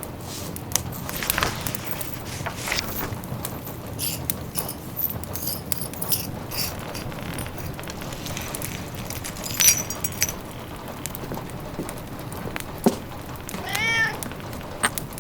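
Wood fire crackling in a fireplace, with scattered pops and clicks, a sharper pop about 13 seconds in. Near the end a cat meows once.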